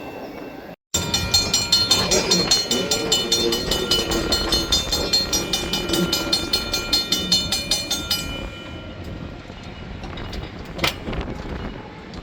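Train passing close by, its wheels clicking rapidly and evenly over the rail joints, dying down after about eight seconds.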